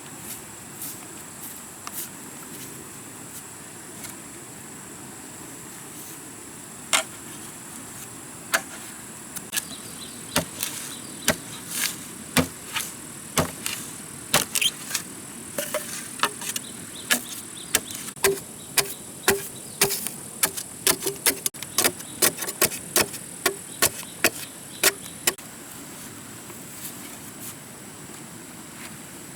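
A run of sharp knocks, irregular at about one to two a second, over a steady high insect drone.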